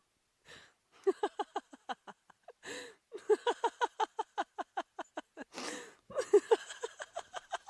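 A person laughing in rapid, fairly high-pitched 'ha-ha-ha' bouts of about seven pulses a second. Each bout is broken by a gasping in-breath, heard about half a second in, near three seconds in and again past five seconds.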